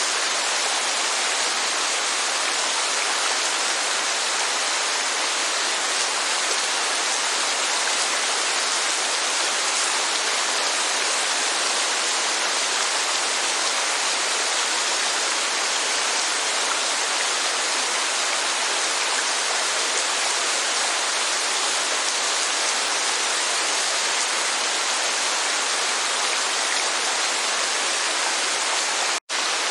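Steady, even rushing of rain and falling water, with no change in level. It cuts out for an instant near the end, then resumes unchanged.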